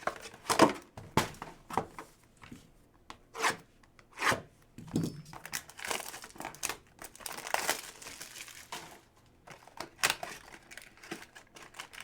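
Bowman's Best trading-card pack wrappers crinkling and being torn open, in a string of short, uneven rustles and rips.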